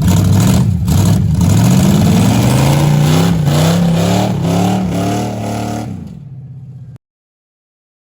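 Car engine running hard, then accelerating with its pitch climbing in several steps, before fading and cutting off abruptly about seven seconds in.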